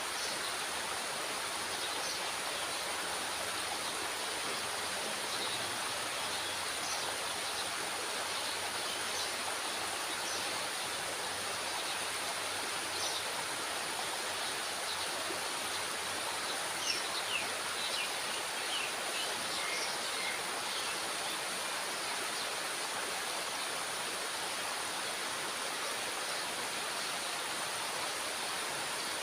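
Water rushing steadily below a dam's spillway gates, with a few faint, short high sounds about halfway through.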